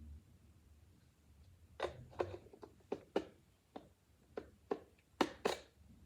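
About ten sharp, irregular knocks and clicks, starting about two seconds in, as parts of a Roomba robot vacuum are handled.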